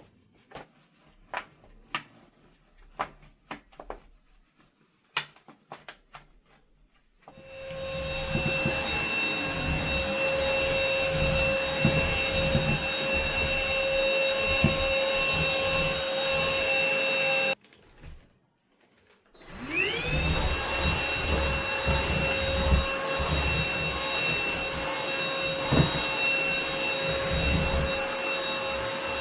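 Light clicks and taps, then about seven seconds in a vacuum cleaner switches on and runs with a steady whine. It cuts off for a moment at about 17 seconds and starts again, its whine rising as the motor spins up.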